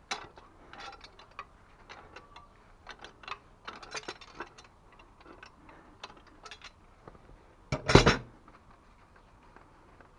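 Scattered light clicks and taps from hands working on plumbing parts and tools, with one much louder knock about eight seconds in.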